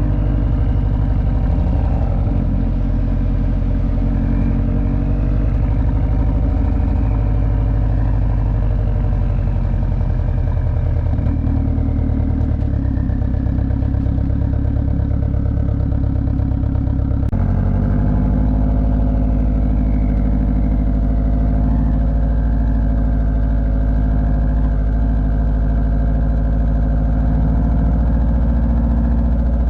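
Subaru STI's turbocharged flat-four engine running at a steady cruise, its pitch changing in steps a few times as the revs shift.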